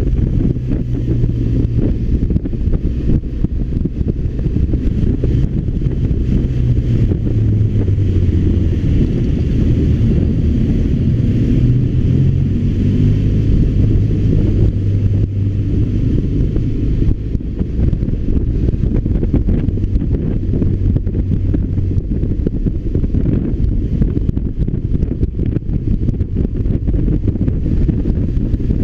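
BMW R1200RT's boxer-twin engine running under way on the motorcycle, its low note shifting a little in pitch now and then with the revs, mixed with wind rushing over the microphone.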